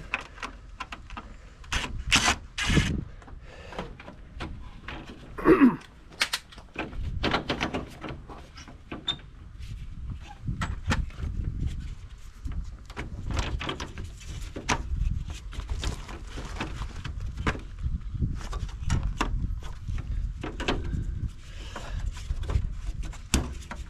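Irregular clicks, taps and scrapes of hand tools and plastic parts being handled while a tractor's joystick housing is taken apart. About five and a half seconds in there is one louder squeak.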